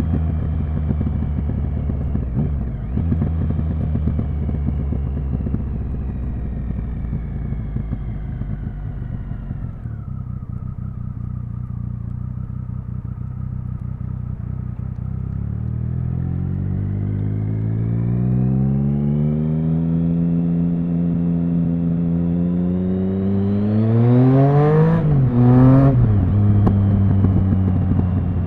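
Triumph Speed Triple 1050's inline three-cylinder engine under way: revs fall and hold low through the first half, then climb steadily with a rising pitch from about 16 seconds, peak with a brief crackle around 25 seconds, and drop sharply.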